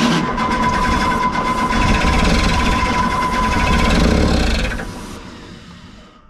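Excavator's diesel engine cranking on its electric starter, with a steady starter whine, for about five seconds, then winding down. The engine does not keep running: a no-start after the machine sat for months.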